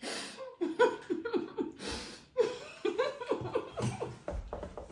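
A person laughing in a string of short breathy bursts that start suddenly, a few per second, fading toward the end.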